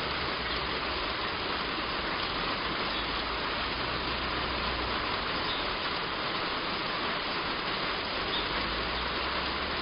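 Heavy rain falling on a roof: a steady, dense hiss with a low rumble underneath.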